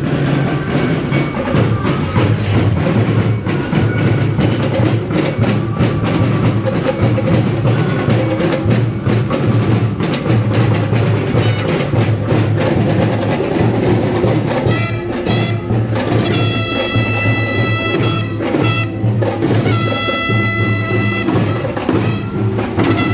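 Marching band playing brass and drums over a steady beat. From about fifteen seconds in, a high, held note sounds over the band in several stretches.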